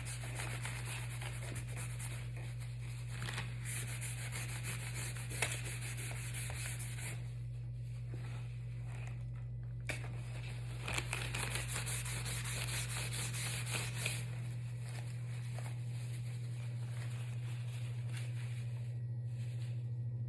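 Colouring strokes rubbed back and forth across paper in stretches with short pauses, over a steady low hum.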